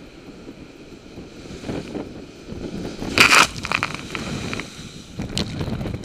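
Storm wind buffeting the microphone. About three seconds in comes one loud, short noisy burst, followed by a few short cracks, and another sharp crack near the end.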